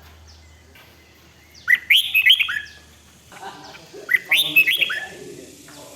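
Red-whiskered bulbul singing: two short, bright warbled phrases about two seconds apart.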